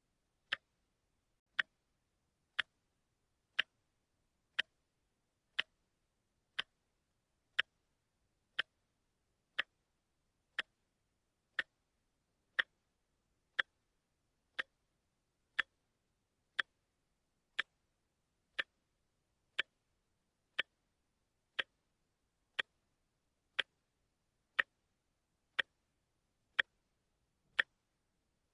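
Watch ticking steadily at one sharp tick a second, with silence between the ticks.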